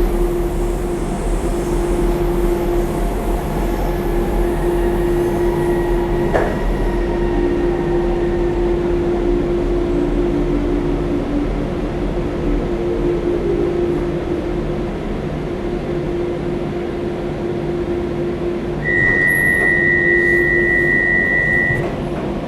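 Docklands Light Railway train heard from inside the carriage as it runs, with a steady rumble and a constant humming tone. Near the end a steady high beep sounds for about three seconds.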